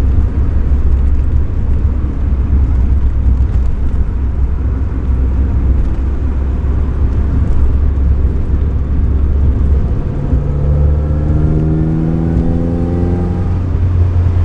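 1975 Alfa Romeo GTV's twin-cam four-cylinder engine and road noise while driving, a steady low drone. About ten seconds in, the engine note rises as the car accelerates, then eases off near the end.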